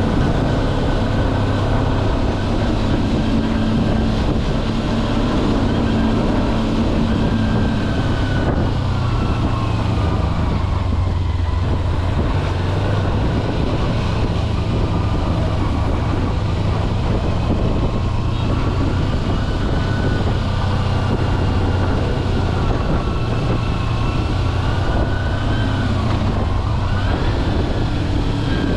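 Kawasaki Versys-X 250's parallel-twin engine running steadily under way, its pitch rising and falling with throttle changes, over constant road and wind noise.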